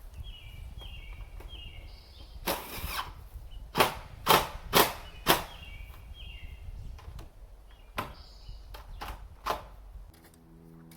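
A run of sharp bangs, the loudest four about half a second apart near the middle, over a low steady hum. Short falling chirps come in small groups near the start and again later.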